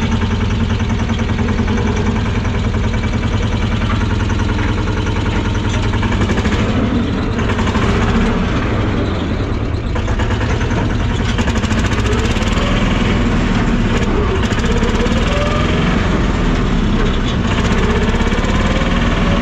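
Tofaş car's engine running on a test drive, its pitch rising and falling several times in the second half as it is driven through the gears. The freshly repaired 4-speed gearbox now engages 4th and makes no noise.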